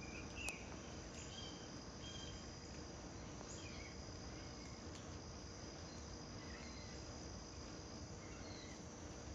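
Outdoor ambience of a steady, high insect drone with short bird chirps scattered throughout, and one sharp click about half a second in.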